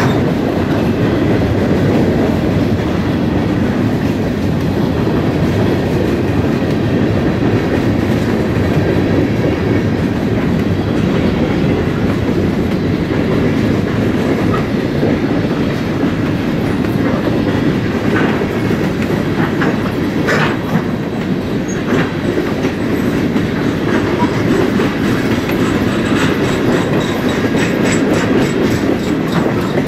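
Freight cars rolling steadily past close by: a continuous rumble of steel wheels on rail, with sharper clicks and clanks of the wheels in the second half.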